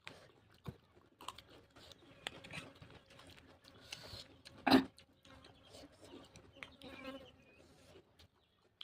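Close-up eating sounds: scattered soft chewing smacks and mouth clicks, with one louder, sharper sound about halfway through.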